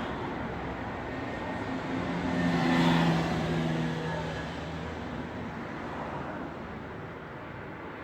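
Steady road traffic noise, with one vehicle passing close: its engine tone swells to a peak about three seconds in and fades away over the next two seconds.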